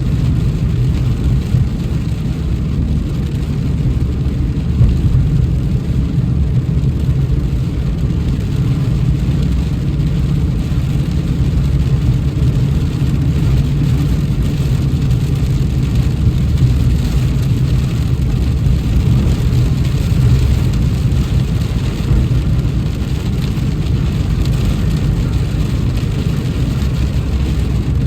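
Car driving in rain: a steady low road-and-engine rumble with a faint hiss of rain over it, with no distinct thunderclaps.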